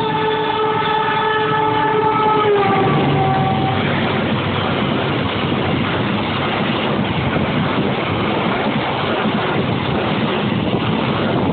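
KA Turangga express passenger train passing at speed: the locomotive's horn sounds for about three seconds and drops in pitch as it goes by, then the carriages' wheels on the rails make a loud, steady noise.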